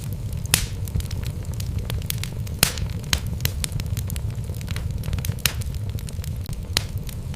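Wood logs burning in a fireplace: a steady low rumble of the flames, with frequent small crackles and a few sharp, louder pops at irregular moments.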